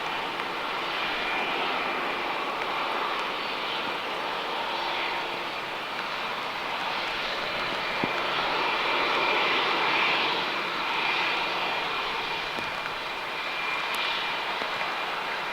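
Jet engines of an Airbus A321-231, IAE V2500 turbofans, running: a steady rushing noise with a thin, even high whine, growing slightly louder about ten seconds in.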